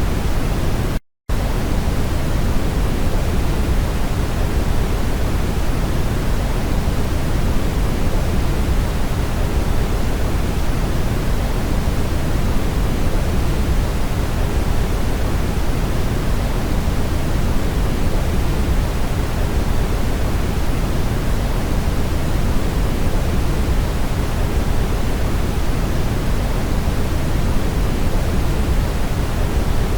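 Brown noise: a steady, even rushing hiss, heaviest in the low end. It cuts out to silence for a split second about a second in.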